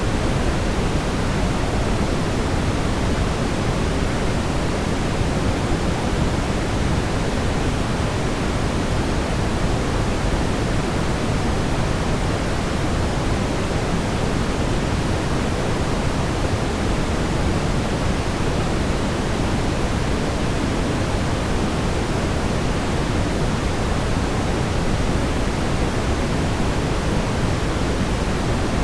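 Steady brown noise: an even, unchanging deep rumbling hiss, strongest in the low end and fading toward the highs.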